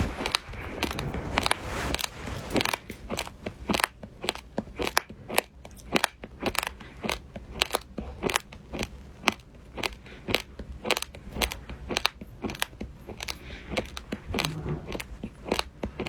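Close-miked crunchy eating: a steady run of crisp bites and chewing crunches, several a second.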